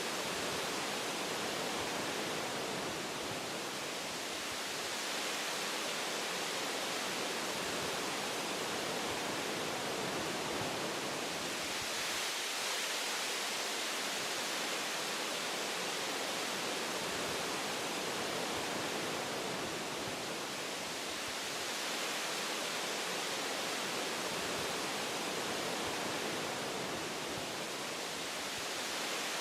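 Wind blowing through forest tree branches, a steady hiss of rustling foliage that swells and eases every several seconds.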